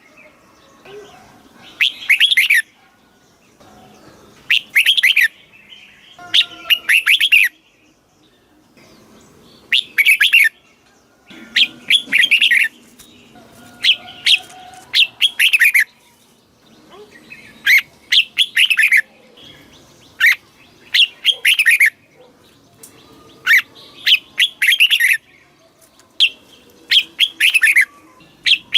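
Red-whiskered bulbul singing: short, loud phrases of quick, falling whistled notes, repeated every two to three seconds.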